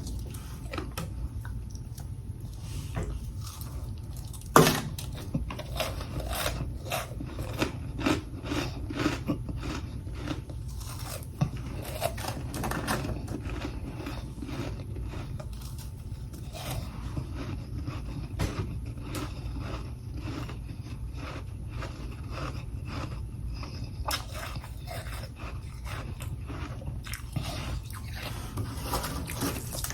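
A person biting and chewing freezer frost, a rapid series of short crunches with one sharp, loud crunch about four and a half seconds in, over a steady low hum.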